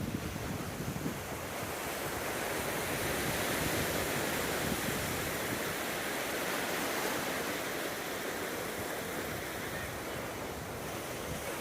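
Gentle ocean waves washing onto a sandy beach, a steady surf wash that swells and eases slowly, with some wind on the microphone.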